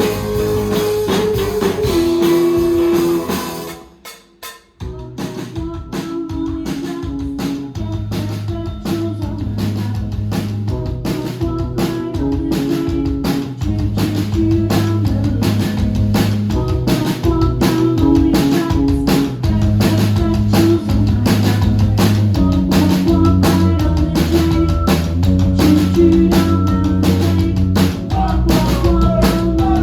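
Live rock band playing: electric guitars, bass and drum kit. The music drops out briefly about four seconds in, then the band comes back in on a steady drum beat.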